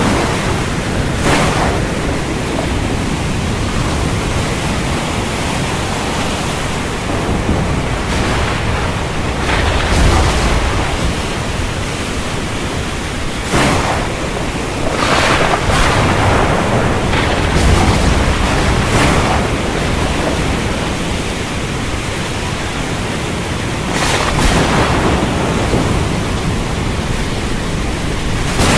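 Heavy storm rain pouring in a steady rush, with several sudden cracks and low rumbles of thunder through it.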